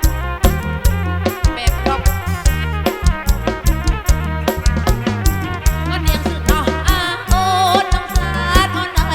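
Live kantrum folk band music played loud through a PA, driven by a steady, heavy bass-and-drum beat. About six seconds in, a wavering high melody line comes in over the beat.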